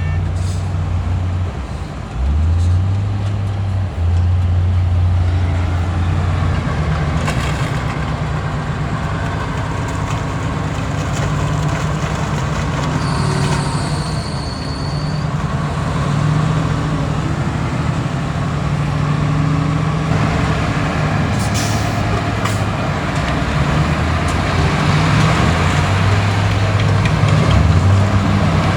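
Diesel engines of heavy earthmoving machinery (bulldozer and dump trucks) running under load, the engine note rising and falling as they work. A brief high tone sounds about 13 seconds in.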